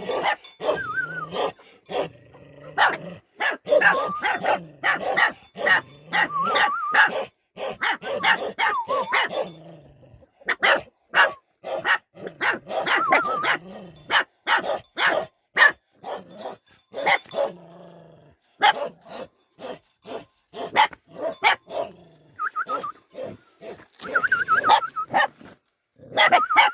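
Bhote dogs barking over and over in short, sharp barks, mixed now and then with high whining cries.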